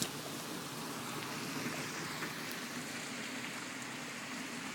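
Heavy rain pouring down: a steady hiss of falling rain.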